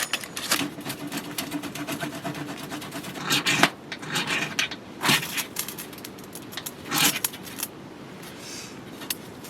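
Hands working at a wood stove with kindling and fire starters: scattered metallic clinks, knocks and scrapes, with three louder scraping rushes spaced a second or two apart, before the handling quietens.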